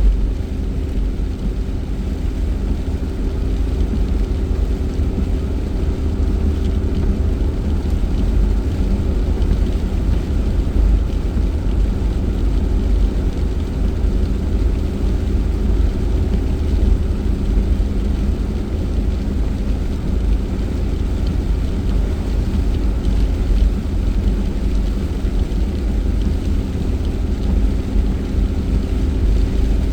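Car driving along: a steady low road rumble with a faint engine hum and a light hiss of tyre and road noise.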